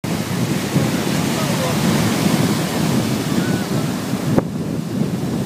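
Strong wind buffeting the microphone over the wash of sea surf, with a sharp click about four seconds in.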